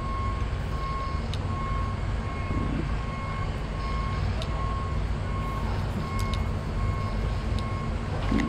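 A vehicle's reversing alarm beeping steadily in evenly spaced short beeps, over a low engine rumble.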